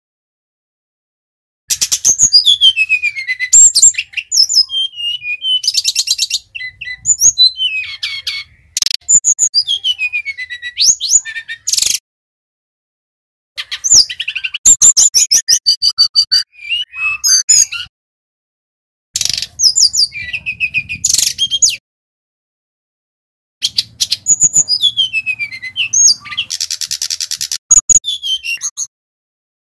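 Sikatan rimba dada coklat (brown-chested jungle flycatcher) singing loud, varied phrases of quick whistled notes, slurred glides and fast rattling trills. The phrases come in groups a few seconds long, broken by short silences.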